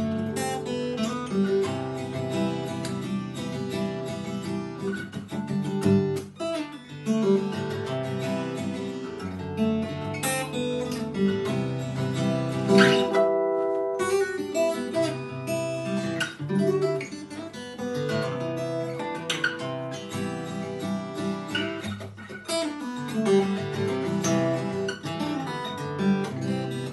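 Guitar played with the fingers: a song of plucked and strummed chords with ringing notes.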